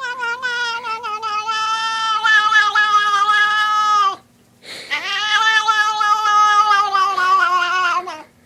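A cat yowling: two long drawn-out calls, about four seconds each with a short break between, each sagging slightly in pitch toward its end.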